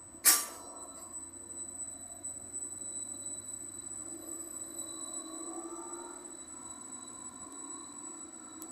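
Greater Anglia Class 755 bi-mode train pulling away from the platform, its traction running with a faint rising whine. A sharp loud click just after the start is followed by a steady high-pitched tone that carries on.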